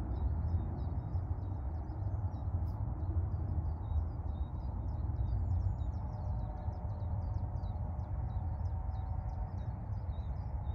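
Birdsong: a continuous, rapid high twittering of small chirps without pause, over a steady low rumble.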